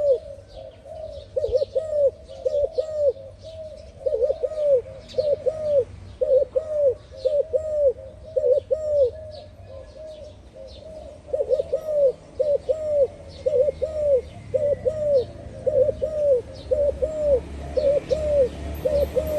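Spotted dove cooing over and over, short low coos in quick groups with a brief lull about halfway. Faint chirps of small birds sound above it.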